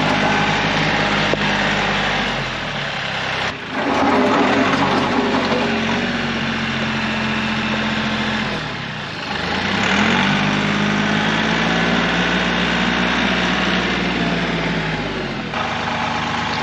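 Kioti CK3510 compact tractor's three-cylinder diesel engine running steadily under working load. Its note sags about three seconds in and again around nine seconds, then climbs back up.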